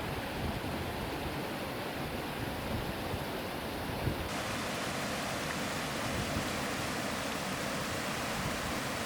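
Waterfall rushing, a steady hiss of falling water that turns brighter about four seconds in.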